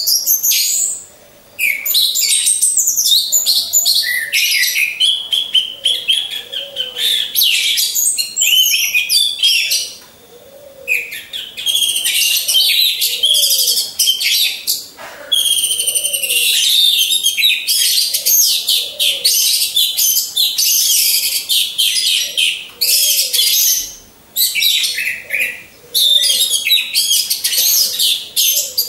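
Orange-headed thrushes singing: a dense, high-pitched stream of rapid, varied whistled phrases, broken by a few short pauses.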